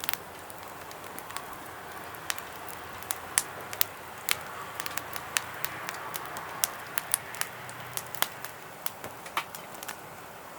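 Firewood burning in a fire pit, crackling with irregular sharp pops over a steady soft hiss.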